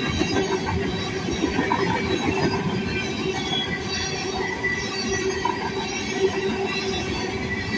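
Freight train rolling steadily past, with the rumble of wheels on rail and thin squealing tones from the wheels.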